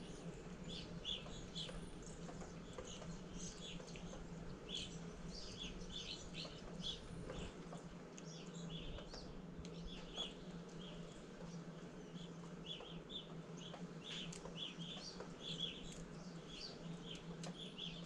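Wild birds chirping: many short, high chirps keep coming throughout, over a faint steady low hum.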